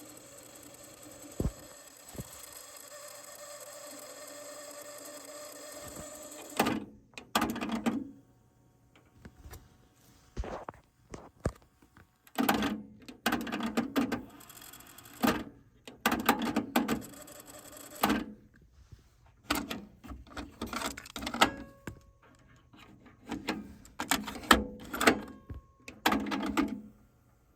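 Yamaha K-98 dual cassette deck: its tape transport runs with a steady whir, which stops about six and a half seconds in. A long series of irregular clicks and clunks follows as the transport controls and cassette door mechanisms are worked.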